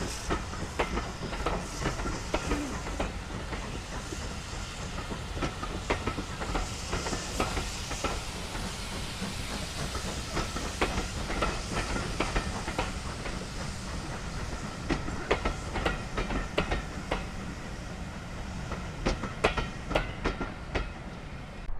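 Steam-hauled train running past, its wheels clicking irregularly over the rail joints above a steady rumble, with a hiss of steam that is strongest in the first half.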